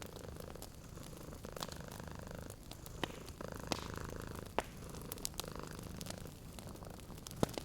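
Cat purring steadily while a wood fire crackles, with scattered sharp pops; the loudest pop comes near the end.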